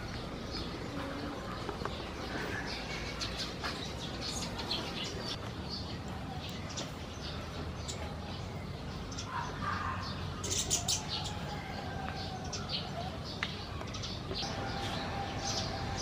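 Birds chirping: many short, high notes scattered throughout over a steady low background hum, with a brief louder cluster of notes about ten seconds in.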